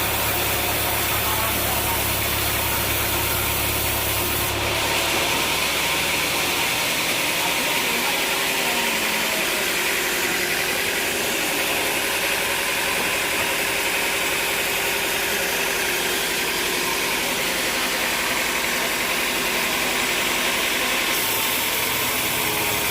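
Sawmill machinery running steadily. About five seconds in the low drone drops away and a higher, hissing noise takes over, and the first sound returns near the end.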